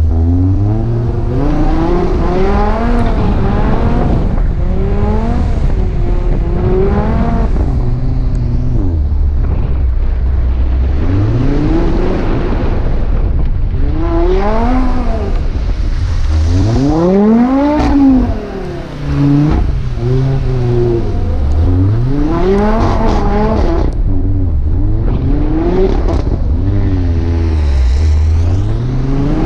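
Audi RS3's big-turbo five-cylinder engine being driven hard, revving up and falling back again and again every second or two, with a brief sudden drop off the throttle about two-thirds of the way through.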